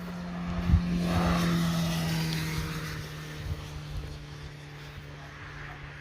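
A car passing on the road, its engine and tyre hum swelling to a peak about a second or two in and then fading away as it drops slightly in pitch. Wind buffets the microphone underneath.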